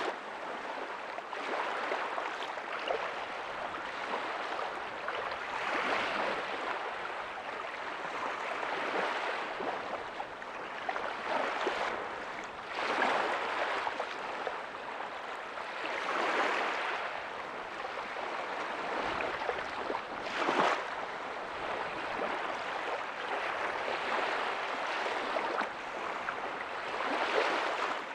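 Ocean waves breaking softly on a beach: a steady wash of surf that swells and eases every few seconds, with one sharper splash about two-thirds of the way through.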